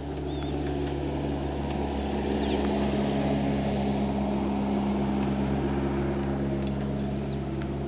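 Steady hum of an engine, swelling over the first few seconds and easing slightly near the end, with a few faint high chirps from small birds.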